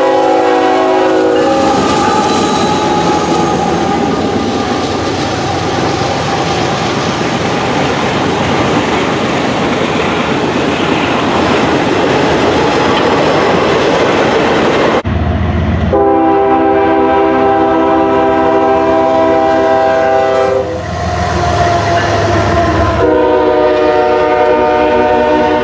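Locomotive air horn sounding a multi-note chord that drops in pitch as the train passes, followed by the steady rumble and clatter of the train's wheels on the rails. After an abrupt cut, a horn sounds two more long blasts.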